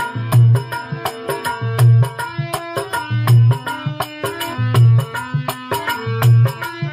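Instrumental passage of Rajasthani devotional folk music. A deep drum stroke lands about every second and a half under quick hand-drum strokes, with a sustained melody line above.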